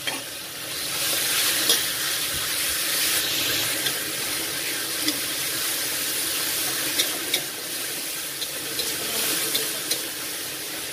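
Ground spice paste sizzling in hot oil in a pan: a steady frying hiss with scattered small pops and crackles.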